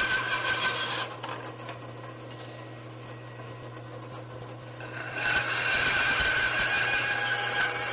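A power tool with a steady whine working on wood. It drops away about a second in and starts again about five seconds in.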